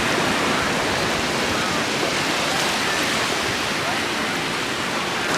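Ocean surf washing onto the beach, a steady rush of noise with faint voices far off.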